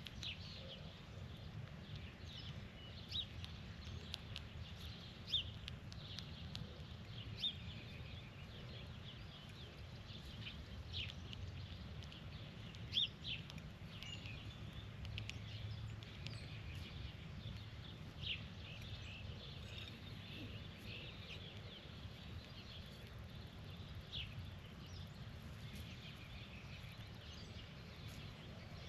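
Birds giving short, sharp chirps every second or two, over a steady low outdoor rumble.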